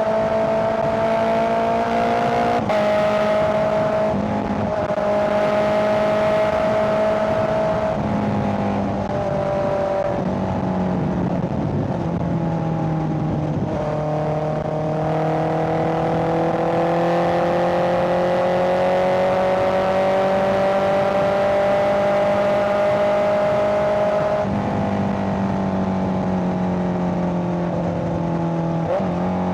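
Honda CBR650R's inline-four engine running steadily under way. Its pitch steps down abruptly several times, as at gear changes, and climbs slowly through the middle as the bike gathers speed.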